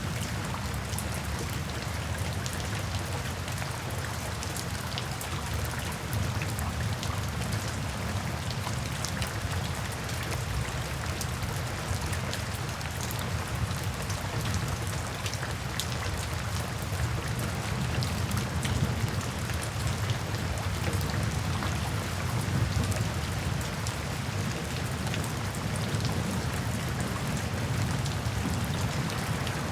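Steady rainfall, with many small drop ticks over a dense, even patter and a low rumble underneath.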